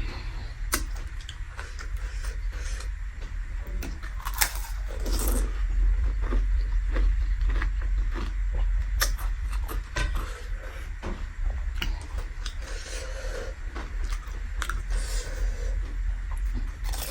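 Close-up eating sounds: chewing with frequent short wet clicks and smacks, over a steady low rumble.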